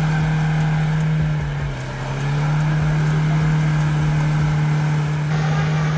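Off-road 4x4's engine held at high revs in a steady drone. It dips briefly about two seconds in, then climbs back and holds.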